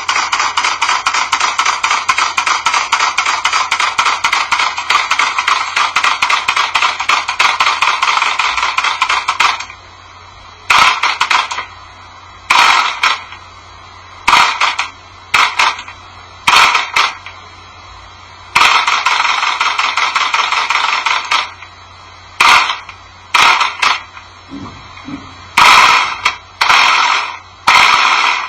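Small model engine running with a rapid, even string of firing pulses. From about ten seconds in it runs only in short bursts of half a second to three seconds, with pauses between them.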